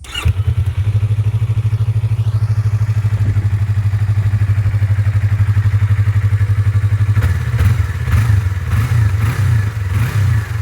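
Yamaha YZF-R25 parallel-twin engine idling steadily through its exhaust, then blipped with several quick revs from about seven seconds in.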